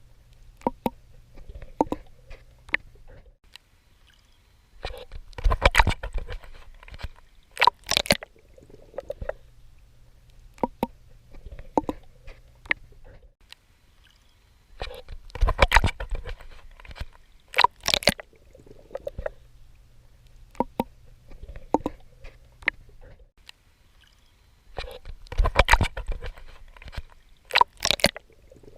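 A swimmer's strokes splashing in water. Clusters of loud splashes come about every ten seconds, with softer sloshing and a low rumble between them.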